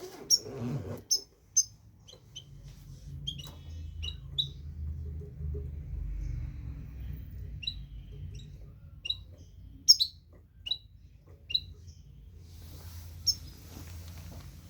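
European goldfinch calling: short, sharp high chirps, a few quick ones at the start, then single notes about a second apart, the loudest about ten seconds in. A steady low rumble runs underneath.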